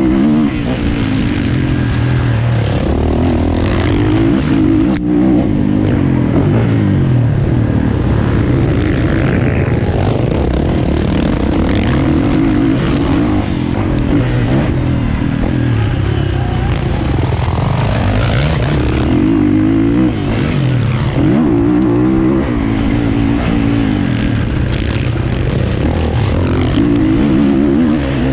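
450cc four-stroke motocross bike engine running hard, its pitch rising and falling again and again as the throttle opens and closes and the gears change.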